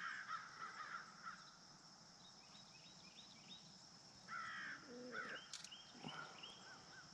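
Faint bird calls: short harsh calls in quick runs, one run right at the start and more after about four seconds.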